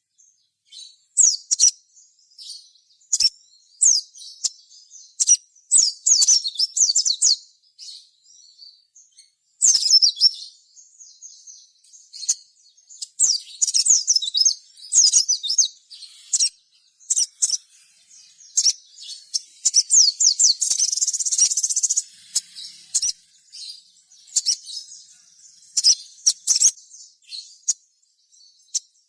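Sogon (spiderhunter) calling in rapid, high-pitched chirping bursts, phrase after phrase with short pauses between, denser for a couple of seconds past the middle. This is the bird in full, prolific song.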